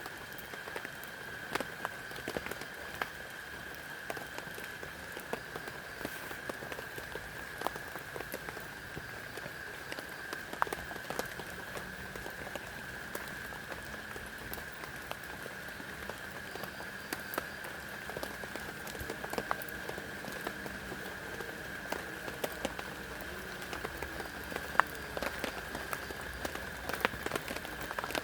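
Heavy rain falling steadily, with sharp drops striking close by every moment or so, over a steady high-pitched drone.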